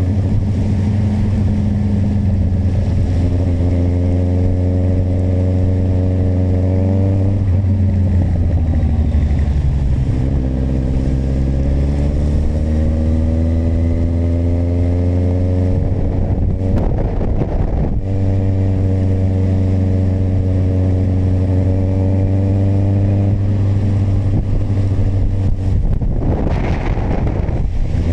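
Kawasaki motorcycle engine running steadily at cruise. It eases off and drops in pitch about a quarter of the way in, then picks up again. Two short bursts of rushing noise come about two-thirds of the way through and near the end.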